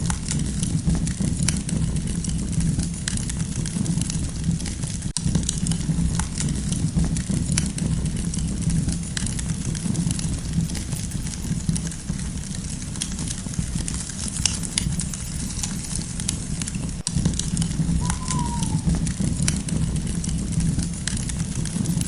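Wood campfire burning steadily: a continuous low rumble of flames with frequent sharp crackles and pops. One short falling note sounds about eighteen seconds in.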